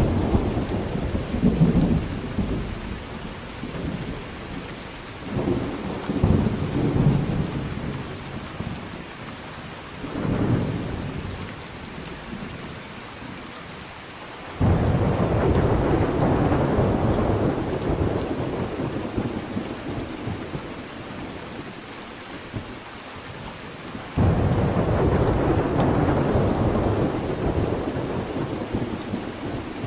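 Thunderstorm: steady rain falling, with rolling thunder. Lighter rumbles swell and fade in the first half, then two loud thunderclaps break in suddenly, one about halfway through and one near the end, each rumbling on for several seconds.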